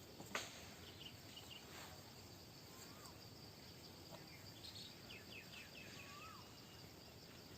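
Faint outdoor background with a few soft bird chirps and calls. A short bird call is heard about three seconds in and again about six seconds in, over a faint steady high insect hum.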